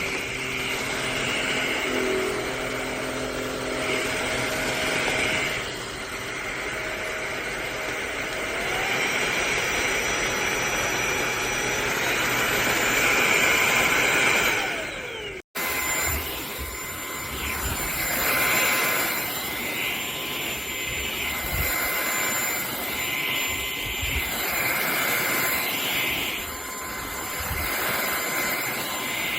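MBYULO 600 W cordless stick vacuum running, a steady motor whine with air rush. In the first half the whine steps up in pitch twice. After a sudden cut about halfway, the sound swells and fades about every two seconds.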